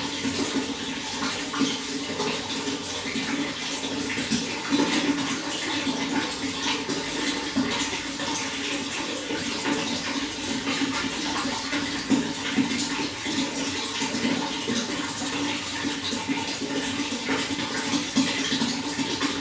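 Running water, a steady splashing rush that does not change.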